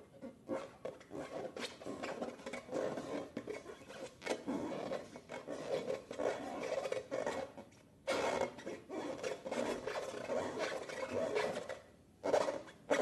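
Hands squeezing and rubbing slime, a continuous crackly rubbing full of small clicks that breaks off briefly about eight seconds in and again near the end.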